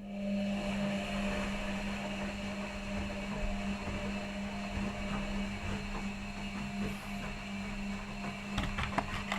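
Front-loading washing machines running mid-wash: a steady low hum with a noisy whirr over it and scattered rattles, and a few sharper knocks near the end.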